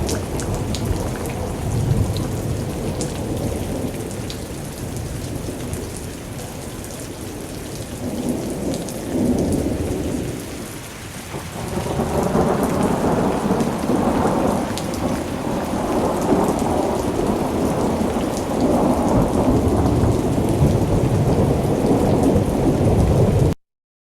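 Recorded thunderstorm: steady heavy rain with low rolling thunder. It dips about halfway through, swells again, then cuts off suddenly near the end.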